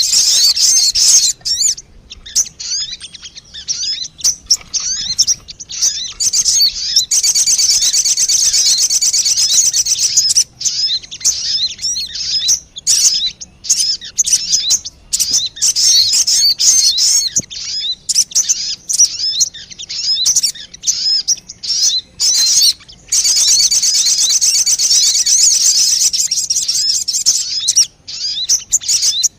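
Recorded lure call of the sogon bird: rapid, high-pitched chirping and warbling, in dense continuous bouts near the start, around a quarter of the way in and again near the end, with scattered separate calls between.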